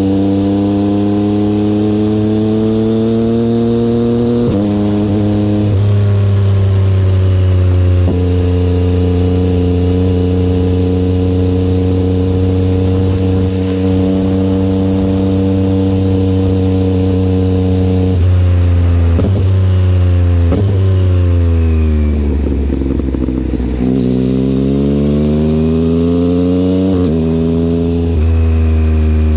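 Yamaha XSR900's three-cylinder engine through an aftermarket Kelpi exhaust, under way and pulling through the gears, the pitch climbing and then dropping at each gear change. About two-thirds through, the revs fall away as the bike slows, then climb again as it pulls away.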